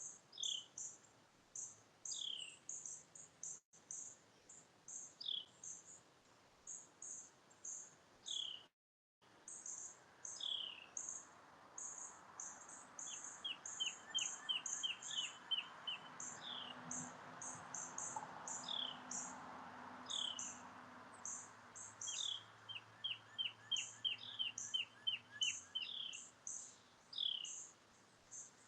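Outdoor birdsong and insect chirping: a constant run of short, very high chirps, a bird repeating a short falling note every couple of seconds, and a quick trill of rapid notes twice. A passing vehicle's engine swells through the middle and fades.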